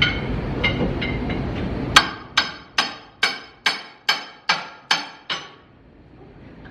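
Hammer striking metal: a few light taps, then nine hard, evenly paced blows at a little over two a second, each with a short metallic ring. This is the work of freeing a wall plank nailed into concrete.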